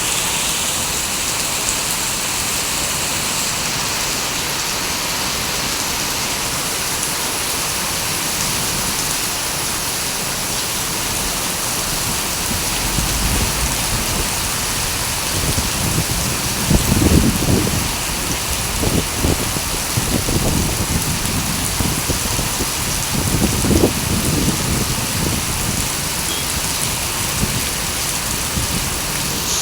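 Rain falling steadily, a continuous hiss of drops, with bouts of low rumbling in the second half.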